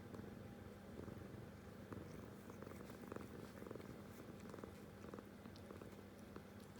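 Domestic cat purring faintly and steadily while it kneads, a low pulsing rumble.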